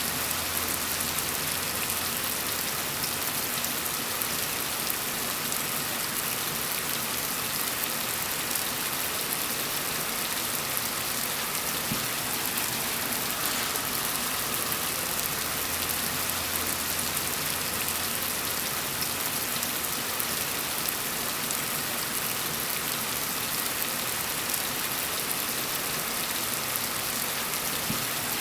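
Steady rain falling, an even, unbroken hiss strongest in the high frequencies.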